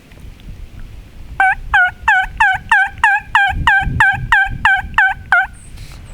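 Wild turkey yelping: a series of about a dozen loud yelps, roughly three a second, each breaking from a higher note down to a lower one. The series starts about a second and a half in and stops about half a second before the end.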